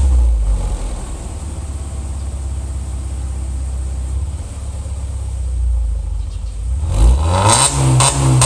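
Subaru XV's flat-four boxer engine heard through its exhaust: it drops back from a rev to a low, steady idle, then about seven seconds in it is revved up again with quick repeated throttle blips.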